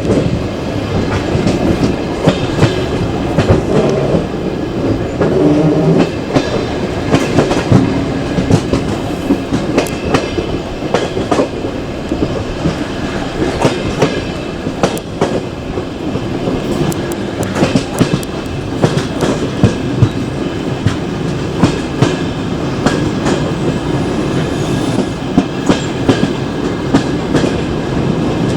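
Passenger train carriage running along the track, heard from its window: a steady rumble of wheels on rail with sharp clicks and knocks as the wheels cross rail joints.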